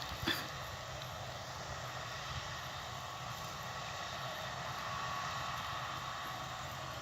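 Claas Lexion combine harvester running steadily at a distance: a faint, even drone and hiss that swells slightly past the middle. A brief click sounds just after the start.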